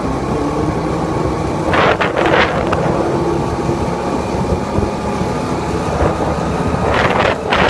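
Motorcycle engine running steadily while riding, with wind buffeting the microphone; two short, louder rushes of noise about two seconds in and near the end.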